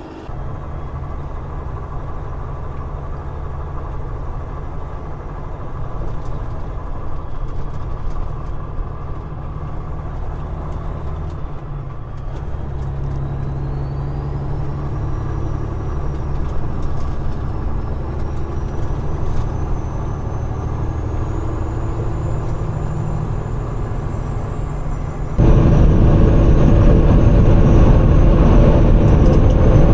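Peterbilt 389 glider's diesel engine running as the truck drives, its pitch stepping between gears. About 25 seconds in the sound suddenly becomes much louder and rougher.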